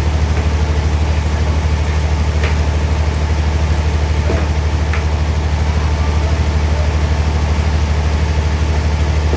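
Sawmill bandsaw machinery running steadily with a deep, pulsing engine-like hum, not labouring in a cut; a few faint clicks over it.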